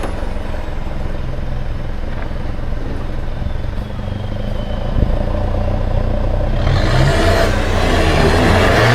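A vehicle engine running at low revs, then revving up near the end, with a rushing noise of tyres or spray growing louder from about seven seconds in.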